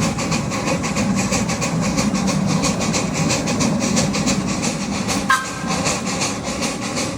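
Small ride-on amusement-park train rolling along its track, its wheels clattering steadily and rhythmically over the rails under a constant rumble. About five seconds in, the locomotive's whistle gives one short toot.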